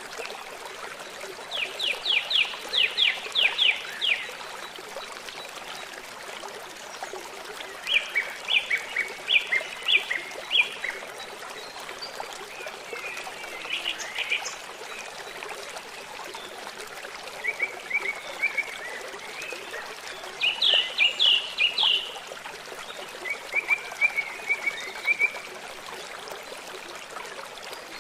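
Songbirds singing short, rapid trilled phrases that recur every few seconds, over the steady rush of running water.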